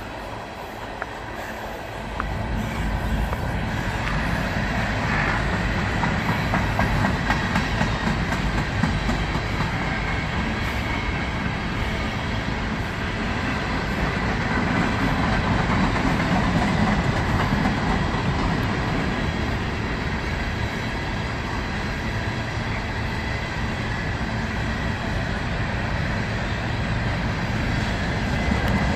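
Empty coal hopper cars of a freight train rolling past, a steady rumble of steel wheels on the rails. It grows louder about two seconds in and stays steady.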